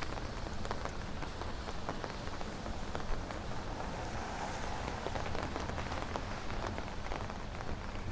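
Steady rain falling on the street, with many small, sharp drop hits close by.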